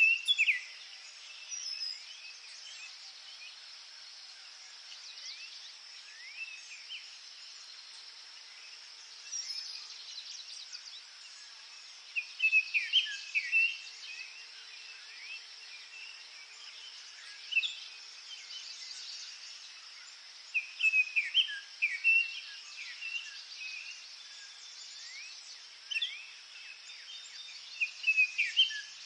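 Forest birdsong: short phrases of chirps and whistles from songbirds every few seconds, over a steady high hiss.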